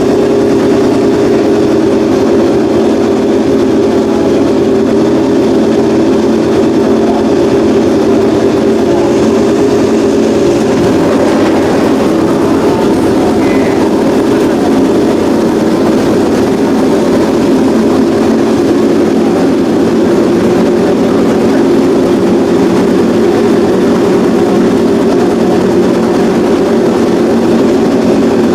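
Honda RC213V MotoGP bike's V4 engine running through its open exhaust at a steady, unchanging engine speed, loud and even with no revs.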